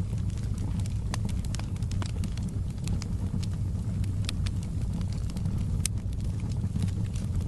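Fire in a fireplace crackling: frequent sharp pops and snaps over a steady low rumble of the flames, with one louder pop about six seconds in.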